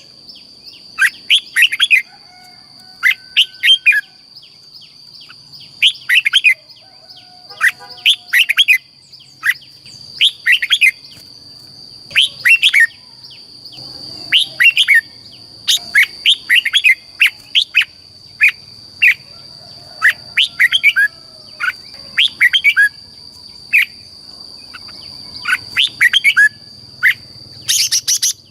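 Red-whiskered bulbul singing: short, quick phrases of bright chirping notes, repeated about once a second, the kind of song played to rouse caged bulbuls. A steady high-pitched tone runs underneath the whole time.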